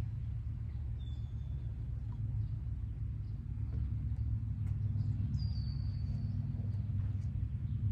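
Short high bird calls, one about a second in and a longer one past the middle, over a steady low hum.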